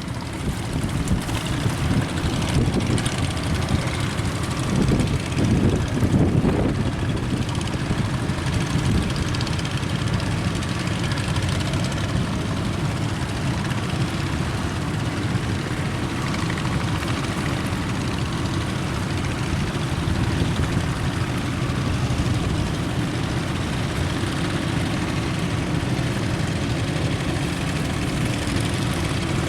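Boat engine running steadily at sea, with wind gusting over the microphone in the first few seconds.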